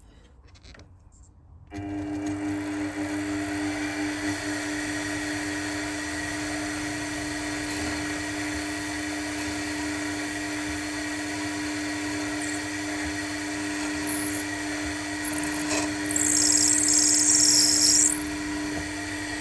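A machine spindle starts about two seconds in and runs steadily, driving a small number 43 twist drill down through an aluminium connecting rod. Near the end a louder, high-pitched scraping sets in as the drill cuts through the part.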